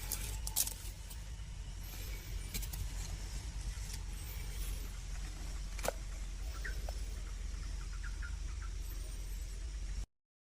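Faint short high chirps of a baby bird over a steady low rumble, with a few sharp clicks; the sound cuts out just before the end.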